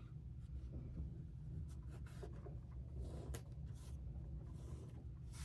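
Fabric pieces being trimmed and handled: faint scraping and rustling with a few light clicks, over a low steady hum.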